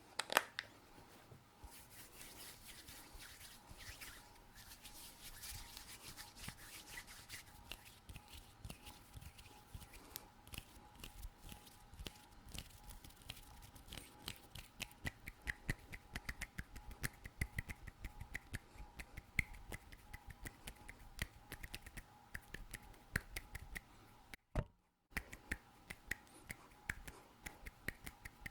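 Close-miked ASMR hand sounds: a few seconds of fast skin rubbing and scratching, then a long run of quick, irregular sharp finger clicks and taps, broken by a brief dropout near the end.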